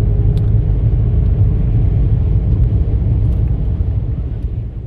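Steady low road and engine rumble inside the cabin of a moving Kia Sorento, fading near the end.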